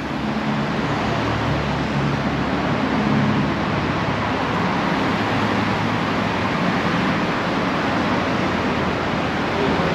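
Steady road traffic noise, with a low engine hum under it for the first several seconds.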